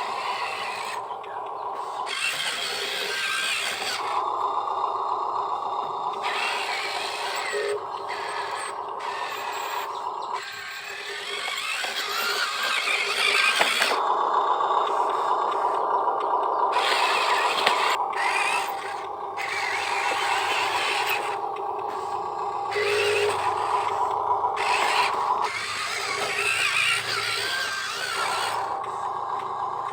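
Small electric motors of radio-controlled model construction machines whining, with the whine shifting every few seconds as the machines move. Gritty scraping comes and goes over it.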